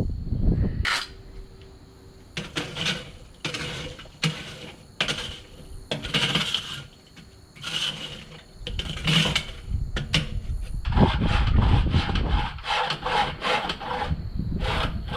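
Repeated scraping or rubbing strokes, about one a second at first and then quick and dense near the end, with wind buffeting the microphone.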